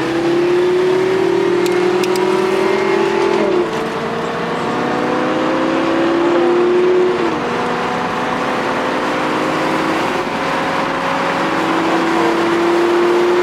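High-performance car engine under hard acceleration, its pitch climbing slowly and then dropping sharply at each upshift, every few seconds. Wind and tyre noise run underneath.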